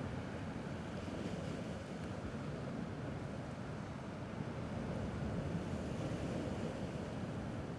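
Steady wash of gentle sea waves, with low wind rumble on the microphone, swelling slightly a little past halfway.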